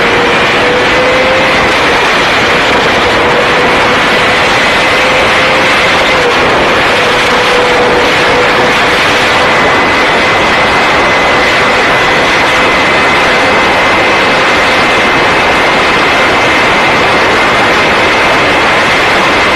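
A motorcycle engine held at a steady high speed under a loud, even rush of wind noise. Its pitch stays nearly constant, with only small rises and dips.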